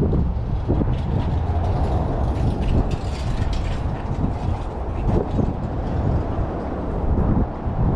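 Outdoor street ambience: a steady low rumble, as of wind on the microphone or passing traffic, with faint rattling clicks about two to four seconds in.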